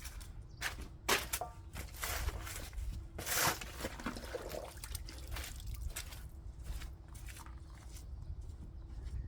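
Garden work in soil: a run of irregular short scrapes and knocks with a few longer scrapes, busiest in the first half.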